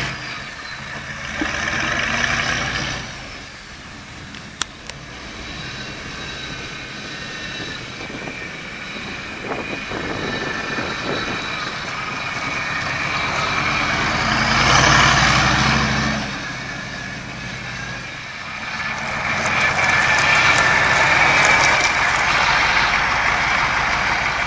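Mechanically injected 6.5-litre turbo diesel V8 in an International Scout idling, with a few louder swells of noise along the way.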